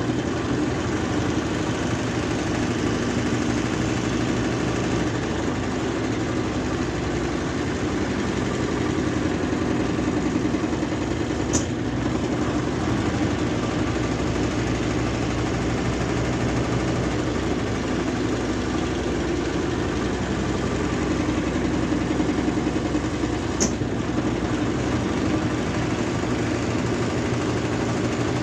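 Brastemp Ative BWG11A 11 kg washing machine running its spin cycle with a steady hum and whir. A sharp click comes about twelve seconds in and again about twelve seconds later.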